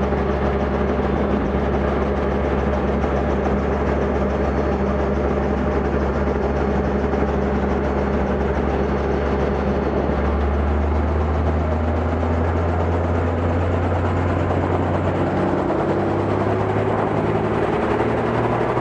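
Robinson R44 helicopter's piston engine and rotor running on the ground before takeoff: a steady low drone whose pitch shifts about halfway through, with a tone that rises slowly near the end.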